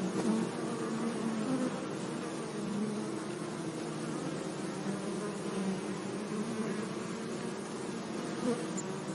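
Bees buzzing continuously, several overlapping, in a steady low hum that now and then swells briefly as one passes close.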